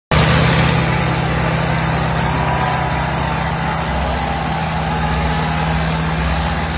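Swaraj and Farmtrac tractors' diesel engines running hard and steadily while pulling against each other in a tractor tug-of-war.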